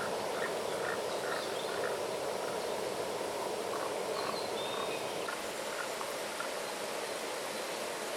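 A small stream running steadily. Over it comes a quick row of short, evenly spaced animal calls in the first two seconds, with a few scattered calls later.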